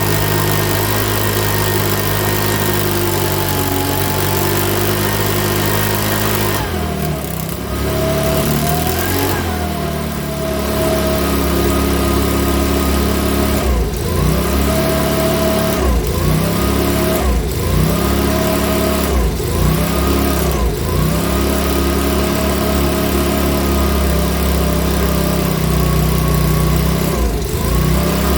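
Makita BHX2500 leaf blower's small four-stroke engine running. It runs steadily at first, drops in speed about seven seconds in, then repeatedly dips and picks up again, uneven running that the owner puts down to a carburettor needing replacement.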